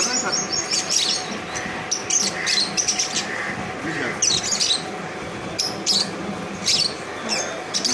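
Birds chirping: short high chirps every second or so, with a few softer, lower notes between them.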